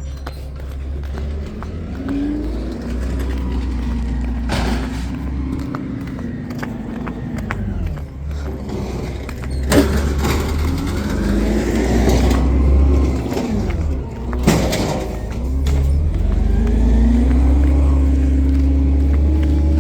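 Garbage truck engine revving up and dropping back several times, its pitch rising and falling, over a steady low rumble. Two sharp clanks come about ten and fifteen seconds in.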